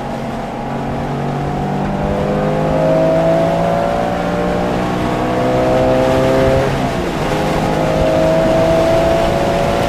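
Porsche engine accelerating hard on track, its pitch climbing steadily through one gear, dropping sharply at a quick upshift about seven seconds in, then climbing again.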